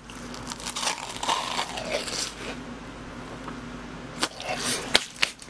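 Close-miked eating of BHC cheese balls, deep-fried glutinous-rice dough balls filled with cheese: biting in and chewing a full mouthful, with crackly, crunching crust sounds and wet chewing throughout.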